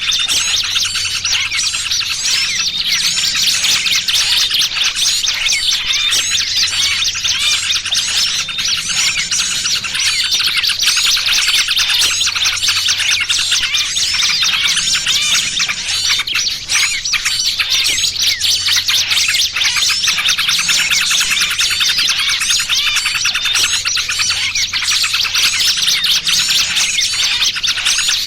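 Dense, continuous chattering and chirping of many small birds: a layered bird-lure recording that mixes noisy yellow-vented bulbul calls with the distress calls of a trapped small bird.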